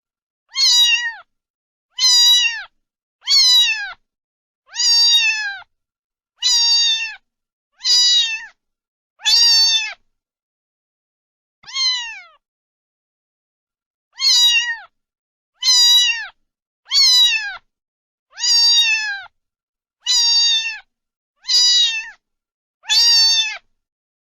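Domestic cat meowing over and over: about fifteen short meows, each falling in pitch, with dead silence between them and a longer pause near the middle.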